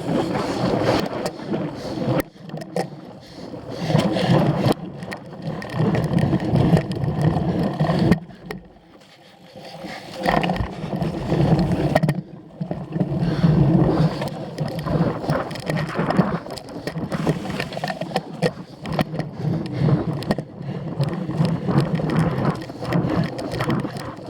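Cyclocross bike ridden hard over rough ground: tyre and drivetrain noise with many rattles and knocks from the bike. The noise eases briefly about eight seconds in.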